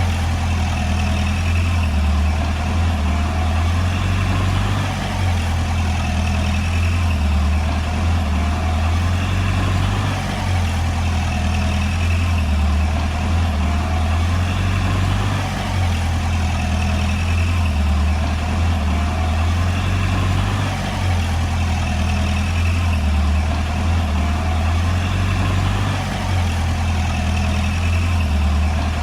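Diesel engine of a Komatsu D20P bulldozer running steadily with a low drone, dipping briefly in loudness about every five seconds.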